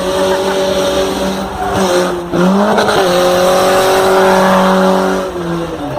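Car engine revved hard and held at high revs, with a brief dip in pitch about two seconds in, and tyres squealing under it. It eases off near the end.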